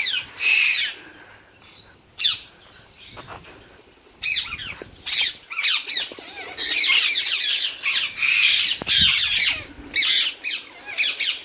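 A large collection of pet parrots squawking and screeching, a few scattered calls at first, then many birds calling over one another from about six and a half seconds in.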